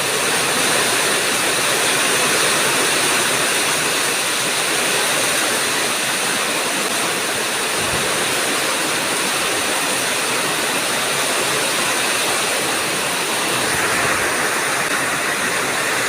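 Heavy rain pouring down in a windy thunderstorm: a steady, dense hiss that turns a little brighter near the end.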